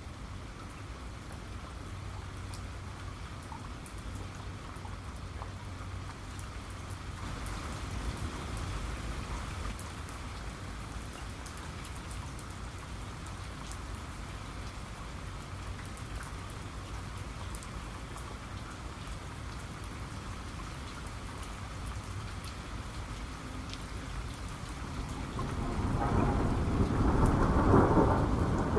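Steady rain falling, with a low rumble of thunder building up near the end and becoming the loudest sound.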